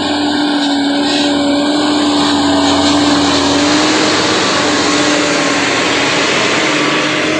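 Heavy truck's diesel engine working hard up a steep climb: a loud, steady drone with a hiss over it that barely changes in pitch.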